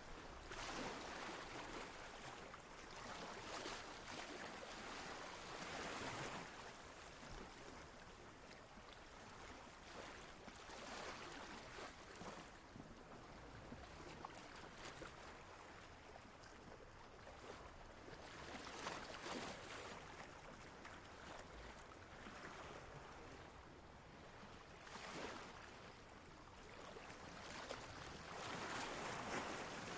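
Ocean waves washing in softly: a steady rushing hiss that swells and fades at irregular intervals of a few seconds.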